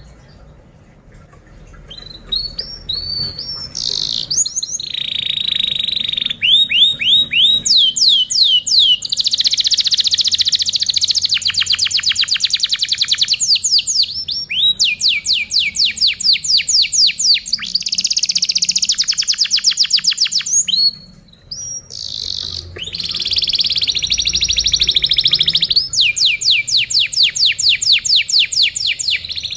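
Domestic canary singing a long song of fast trills: runs of quick repeated notes follow one after another, with a brief break about two-thirds of the way through.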